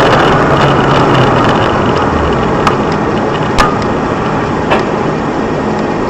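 Loud, steady vehicle noise with a low hum, broken by three sharp knocks.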